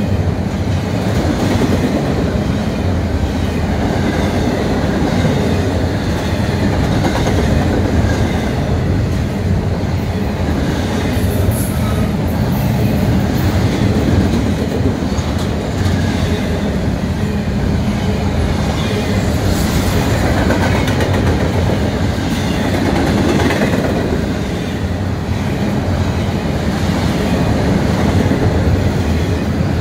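Double-stack intermodal freight cars rolling past, their steel wheels on the rails making a steady, continuous rumble.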